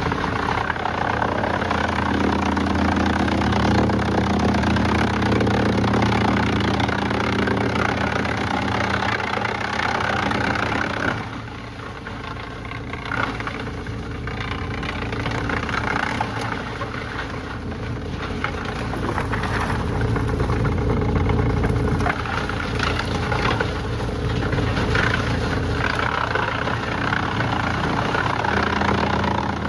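A machinery engine running steadily. Its sound drops and thins about eleven seconds in, then comes back up.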